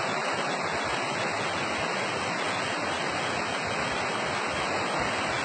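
Waterfall rushing steadily, its flowing water mixed with mud.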